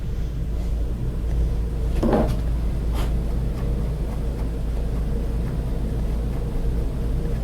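A steady low machine hum with a faint, higher steady tone in it, and two brief faint knocks about two and three seconds in.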